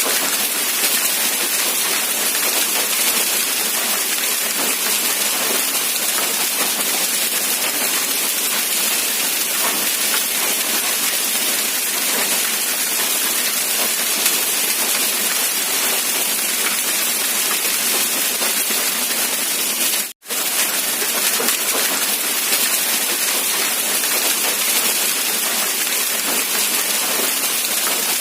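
Steady rain falling, a dense even hiss with no separate drops standing out. The sound cuts out completely for a split second about 20 seconds in, then resumes unchanged.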